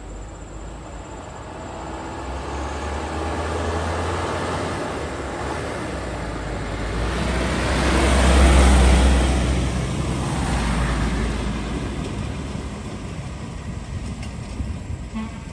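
Heavy diesel truck passing by: a low engine hum and tyre noise build up, are loudest about eight seconds in, then fade away.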